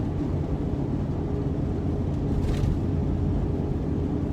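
Steady engine and tyre noise heard inside the cabin of a four-wheel-drive vehicle towing a trailer on a snow-covered highway, with a brief hiss about two and a half seconds in.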